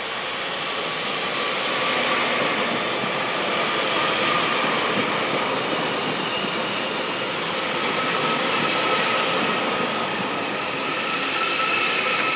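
Class 331 electric multiple unit in motion: a steady rumble of wheels and running gear, with a faint whine that rises a little in pitch over the last few seconds.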